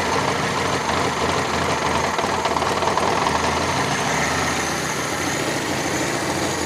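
Fiat FIRE four-cylinder petrol engine idling steadily with its newly fitted water pump. There is no grating from the pump; the engine is not complaining much.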